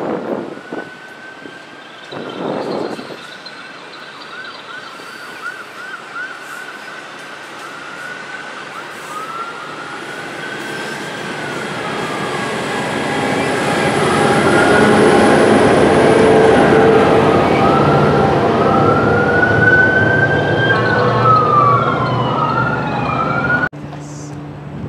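New Jersey Transit multilevel commuter train rolling past, its rumble growing louder as the locomotive end approaches, while an emergency-vehicle siren cycles through quick yelps and longer wails over it. The sound cuts off abruptly near the end.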